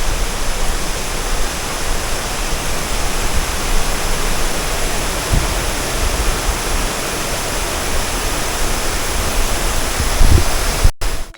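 Rain-swollen mountain waterfall in full flow: a steady, loud rush of falling water, with a couple of brief low rumbles from wind buffeting the microphone.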